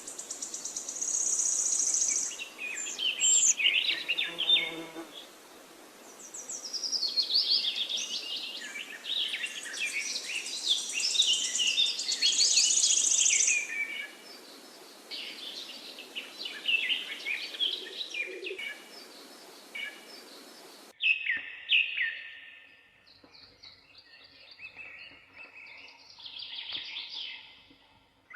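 Forest birds singing, several calls overlapping in quick chirps and high rapid trills, over a steady background hiss. About two-thirds of the way through, the hiss cuts off suddenly and the song continues more sparsely and quietly.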